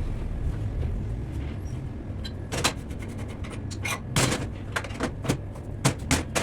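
Irregular sharp knocks and clicks of work on a car, coming thick from about two and a half seconds in, over a steady low rumble.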